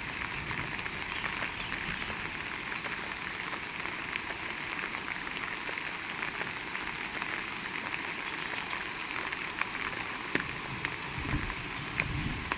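Heavy rain falling steadily, a dense hiss with many sharp close drop hits. A few soft low thuds come near the end.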